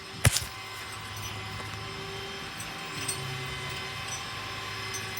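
A sharp clank about a quarter-second in, followed by a couple of lighter knocks, over the steady low hum of an idling vehicle engine.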